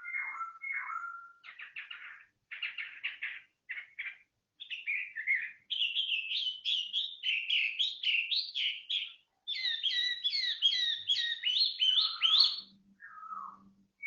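A songbird singing a long, varied song of quick whistled phrases and rapidly repeated notes, with a run of fast sweeping notes near the end.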